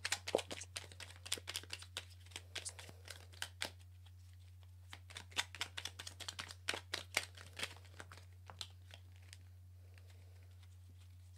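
Tarot and oracle cards being handled: quick papery clicks and rustles of cards being shuffled and drawn, which die away about nine seconds in. A steady low electrical hum runs underneath.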